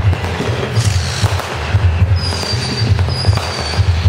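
Neighbourhood fireworks going off: a run of pops and crackles, and about two seconds in a high thin whistle held for about a second and a half, broken once. Under it all runs a steady, pulsing low rumble.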